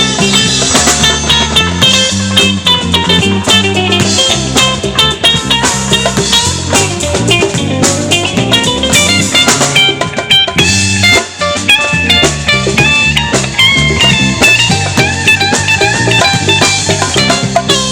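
Live band playing an instrumental passage: electric guitar picking quick runs of notes over bass and drum kit, with a brief drop-out about eleven seconds in.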